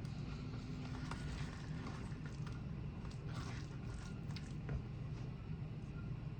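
Quiet chewing and mouth sounds, with faint scattered clicks, over a low steady hum.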